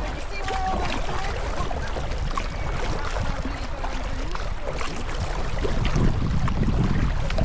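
Water splashing and lapping around a sea kayak and its paddle, over a steady low rumble of wind on the microphone.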